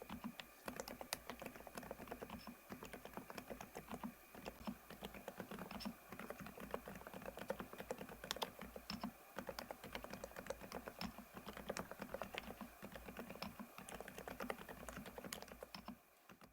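Fast, continuous typing on an ABKO A108K full-size keyboard with a PC plate and Cherry Blossom silent linear switches. The keystrokes come thick and uneven, several a second, and die away just at the end.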